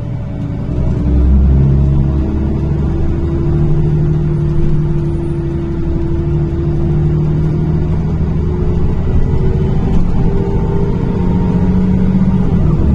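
Inside a NefAZ-5299 city bus under way: its engine and drivetrain run with a steady low hum, and a higher whine climbs slowly in pitch over the last few seconds as the bus picks up speed.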